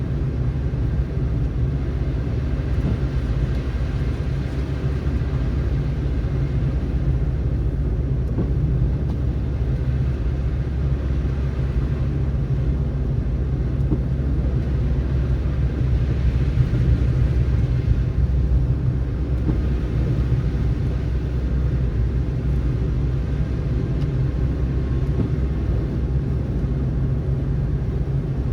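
A car driving on a snowy road: a steady low rumble of engine and tyre noise.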